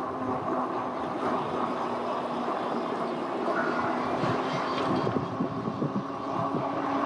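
Road noise heard while riding an e-bike in traffic: a steady rumble of passing vehicles. From about five seconds in, wind buffets the microphone in uneven gusts.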